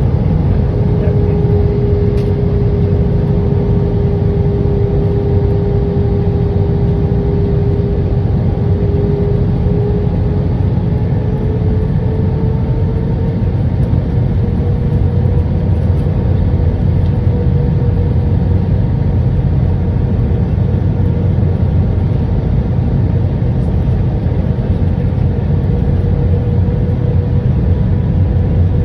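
Airbus A319 cabin noise in flight: a loud, steady rumble of airflow and engines, with an engine hum that rises slightly in pitch about twelve seconds in and then holds.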